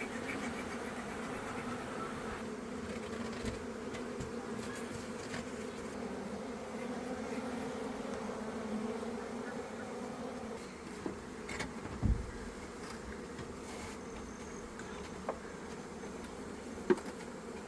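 Honeybees buzzing in numbers around an open hive: a steady, even drone. A few short knocks come in the second half.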